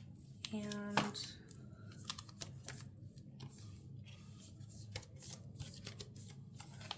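Faint rustling of paper and stickers being handled, with scattered light clicks and taps throughout.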